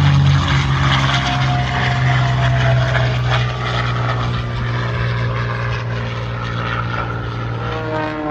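Propeller-driven stunt plane's piston engine running loud and steady as it flies its routine, with the pitch shifting near the end.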